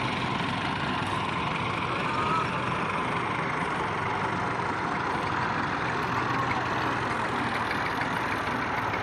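Massey Ferguson 240 tractor's three-cylinder diesel engine running steadily.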